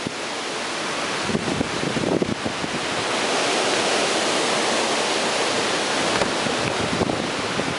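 Strong hurricane wind gusting with heavy rain, a steady rushing noise that swells in the middle, with wind buffeting the microphone.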